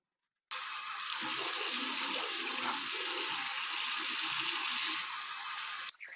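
Water running hard from a tap into a basin, a steady splashing rush that starts suddenly about half a second in and stops suddenly near the end.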